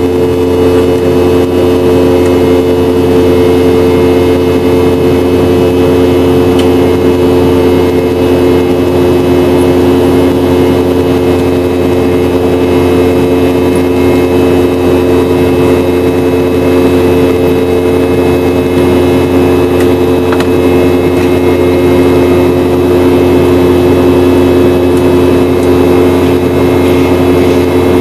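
Boeing 717's rear-mounted turbofan engines running steadily, heard inside the passenger cabin: an even drone with several held tones that do not change.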